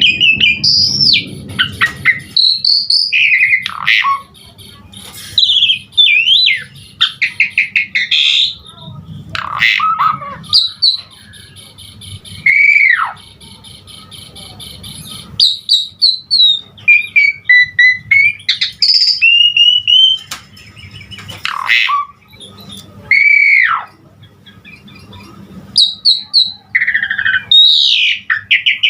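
Javan pied starling (jalak suren) singing a long, varied song packed with mimicked calls (isian): loud whistles that swoop down in pitch, fast chattering rattles, and high buzzy trills.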